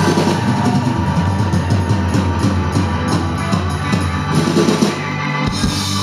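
Live rock band playing the instrumental ending of a song: busy drum-kit playing over held bass notes and guitars.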